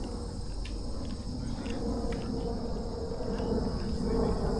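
Steady high-pitched chirring of crickets and other insects, with a low rumble building up underneath near the end.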